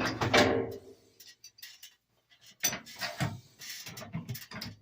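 Metal tools and fittings being handled: a loud clatter with a short metallic ring at the start, then scattered clinks and knocks.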